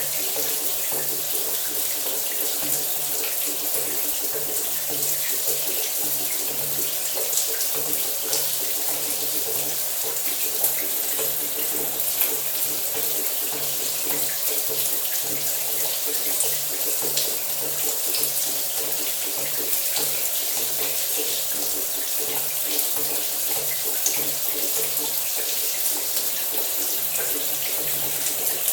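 Shower water running steadily, the spray hissing onto a hard surface, with a low hum that comes and goes underneath.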